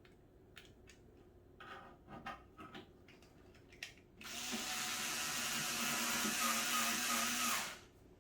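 Power drill running steadily for about three and a half seconds, then stopping suddenly, most likely driving a screw during cat tower assembly; a few light clicks and knocks of parts being handled come before it.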